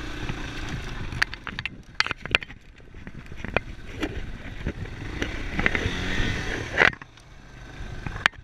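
Yamaha Serow enduro motorcycle's single-cylinder engine working over rough ground, with knocks and scrapes mixed in. The engine rises in pitch about six seconds in, then drops off sharply near the end.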